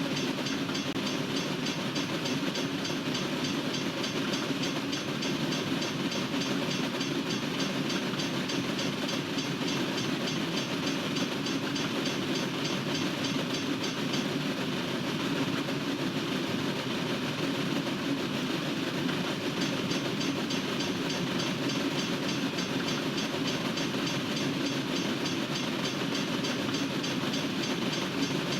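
Norfolk Southern freight train's cars rolling past on the rails, a steady rumble of wheels on track, with a faint fast ticking high up that drops out for a few seconds past the middle.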